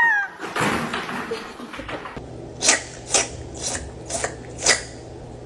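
Cat meowing once, a short rising-then-falling meow right at the start. It is followed by five short sharp sounds about half a second apart over a low steady hum.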